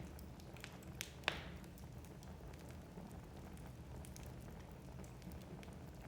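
Wood fire burning in a fireplace: a steady low hiss with scattered crackles and small pops, and one sharper crack about a second in.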